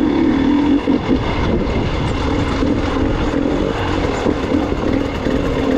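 Gas Gas EX 300 two-stroke dirt bike engine running under the rider at a fairly steady pitch, with small wavers in speed.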